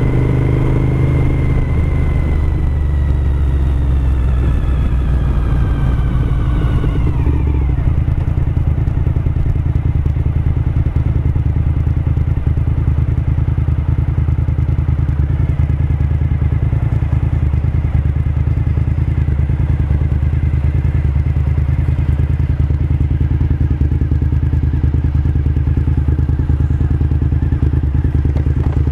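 2007 Suzuki SV1000S's 996 cc V-twin engine slowing down, its pitch falling over the first seven seconds or so as the bike decelerates, then running steadily at low revs.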